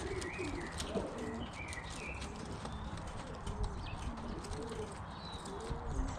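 Young racing pigeons cooing, a series of soft rising-and-falling coos, with a few higher chirps among them.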